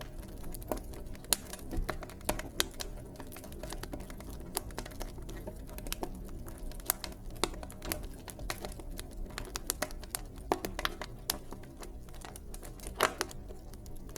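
Wood fire crackling in a fireplace: irregular sharp pops and snaps over a steady low rumble of the burning logs, with one louder pop near the end.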